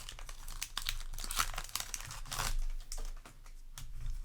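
Foil booster pack wrapper crinkling and tearing as it is handled, in a dense run of crackles with a couple of louder bursts, dying down near the end.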